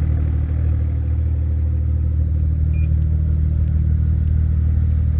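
Car engine idling steadily with a low, even drone that does not rise or fall.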